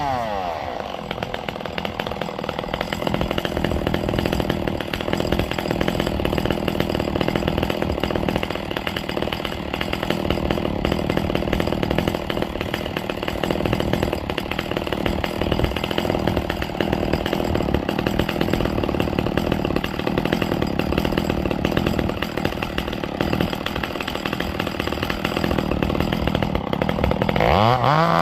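Ported Echo CS-670 two-stroke chainsaw running at a steady, unchanging pitch for a long stretch, then revving up and down near the end.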